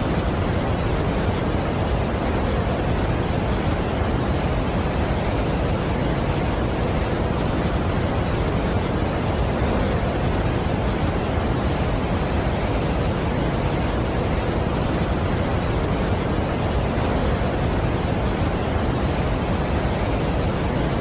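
Steady, unbroken rush of a large waterfall, heaviest in the low end, with no change in level.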